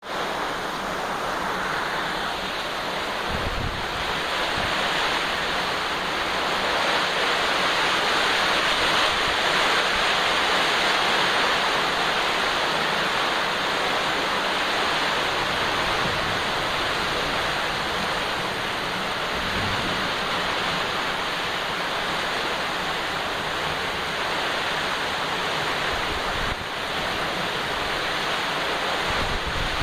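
Very heavy rain falling steadily, a dense even hiss with no letup, with a few brief low bumps of wind on the microphone.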